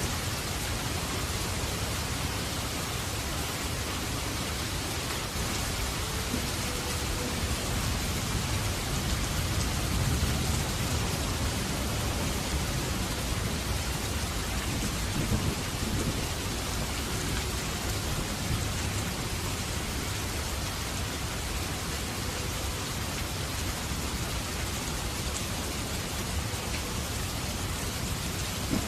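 Steady rain, with a low rumble of thunder swelling in the middle.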